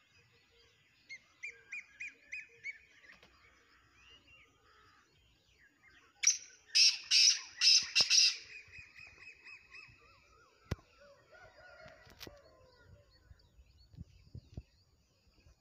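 Black francolin (kala teetar) giving one loud, harsh call of about five rapid notes about six seconds in. Fainter short bird chirps come before and after it.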